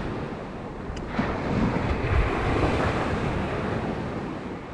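Surf washing on the beach with wind buffeting the microphone in gusts.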